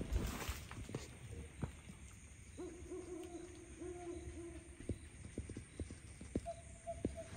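A night bird calling in long, steady hooting notes, a lower one held about two seconds in the middle and a higher one near the end. Light knocks and rustling of footsteps and camera handling, with a brief burst of handling noise at the start as the camera swings.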